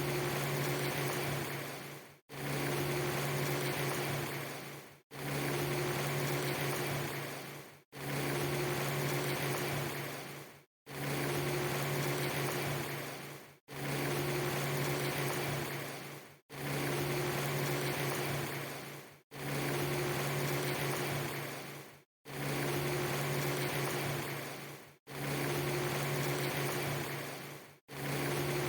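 An even, water-like hiss with a steady low hum, looped as a short segment of about three seconds. Each pass fades and cuts briefly to silence before starting again, about ten times over.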